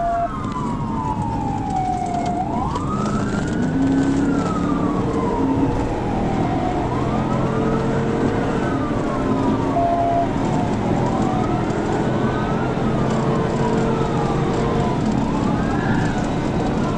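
Police cruiser's siren wailing, its pitch sweeping up and down every few seconds, over the steady engine and road noise of the car running at high speed.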